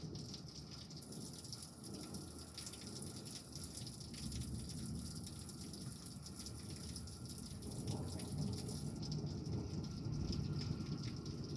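Steady rain falling during a thunderstorm, with close dripping and splashing. A low rumble of distant thunder swells about eight seconds in.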